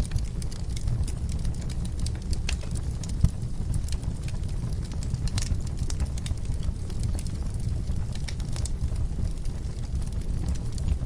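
Wood fire in a fireplace crackling, with frequent sharp pops and snaps over a steady low rumble, and one louder pop about three seconds in.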